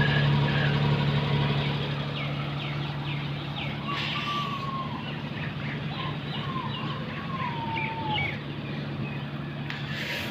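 A steady low hum runs throughout, with short high chirps and, from about four seconds in, a whistling tone that glides up and down.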